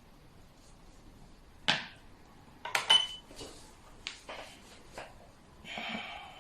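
Xiangqi pieces clacking on the board and against each other: a sharp click a little under two seconds in, a cluster of clacks around three seconds with a brief ring, a few lighter taps after that, and a short rustle near the end.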